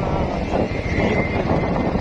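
Motorcycle running along the road with wind buffeting the microphone. A faint, high, steady whine sits over it for about a second in the middle.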